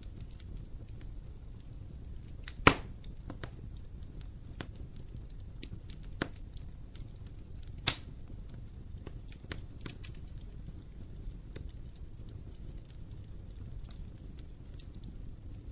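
Wood fire burning in an open fireplace: a steady low rumble of flames with scattered small crackles, and two sharp pops, one about three seconds in and one about eight seconds in.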